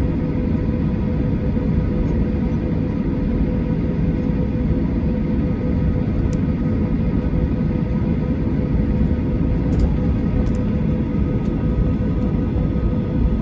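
Steady cabin rumble of a Boeing 737-800 with its CFM56-7B engines running, with a constant hum above the rumble and no change in power.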